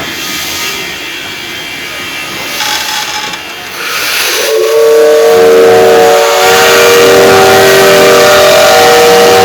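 Steam locomotive hissing, then its whistle blowing one long, loud blast of several steady tones together, starting about four and a half seconds in.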